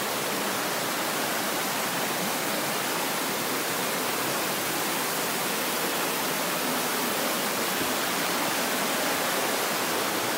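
Waterfall and stream water rushing in a steady, even roar of noise with no breaks.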